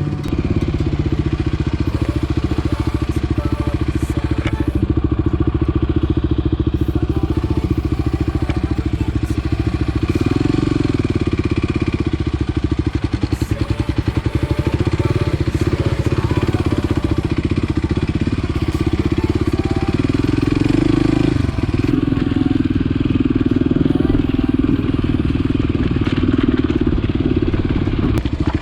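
Motorcycle engine running steadily under way, with a rapid even firing pulse; its pitch shifts briefly about ten seconds in and again about twenty-one seconds in, as the rider changes speed.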